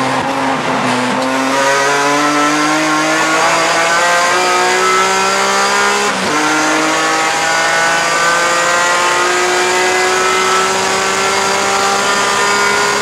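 BMW E46 M3 race car's straight-six engine under full throttle, heard from inside the cockpit. The revs climb steadily, drop sharply with a quick upshift about six seconds in, then climb again through the next gear.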